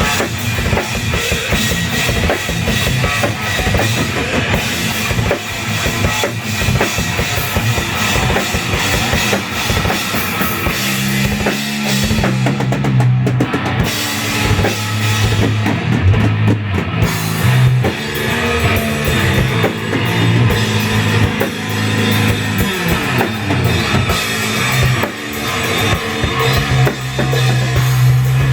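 Improvised heavy metal jam led by a live drum kit played fast and dense, kick drum and cymbals throughout. About a third of the way in, a low riff of held, stepping notes comes in under the drums, and the cymbals drop out briefly twice.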